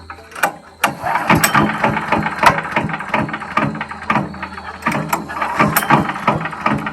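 DR Premier 300 wood chipper-shredder's engine starting up about a second in and then running, with a rapid, irregular mechanical clatter.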